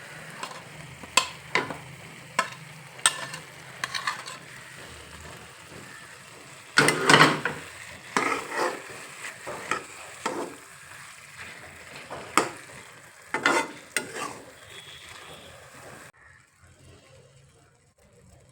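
Food sizzling in a frying pan while a spatula stirs it, scraping and knocking irregularly against the pan, with a busy flurry of strokes about seven seconds in. The sizzling stops about two seconds before the end.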